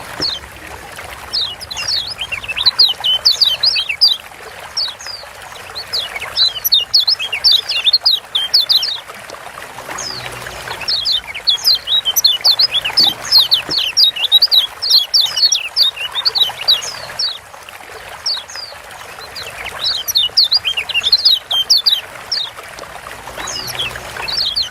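Kecial kuning, a Lombok yellow white-eye (Zosterops), giving its 'ciak' calls: quick runs of high, thin, falling chirps in bouts of a few seconds, with short pauses between bouts, over a steady hiss.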